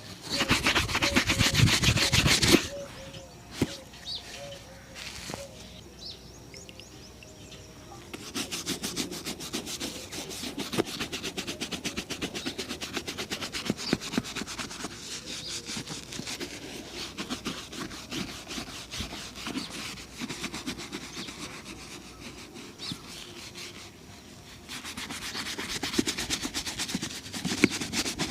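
Shoe being polished: quick, rapid strokes rubbing back and forth over the leather. The strokes are loudest in the first couple of seconds and again near the end.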